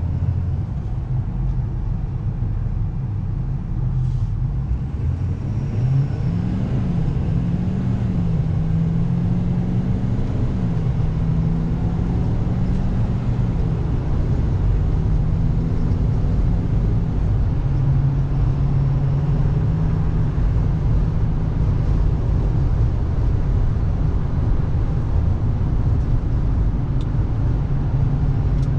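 2014 Ford F550's 6.7-litre Power Stroke turbo-diesel V8 pulling the truck down the road over a low road rumble. Its note rises and falls several times between about six and fourteen seconds in, then holds steadier.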